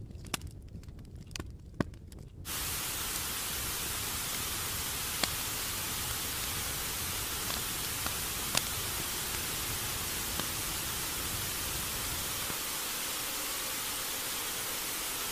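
Low rumble with a few clicks, then an abrupt, steady hiss of static switching on about two and a half seconds in, with an occasional click over it.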